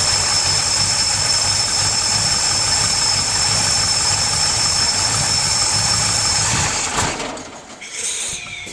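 Pontiac 455 V8 fuel-injected by a FiTech throttle-body EFI and running on E85, idling steadily just after a cold start with a thin high whine over it. About seven seconds in it cuts out abruptly; its cold-start fueling is not yet tuned.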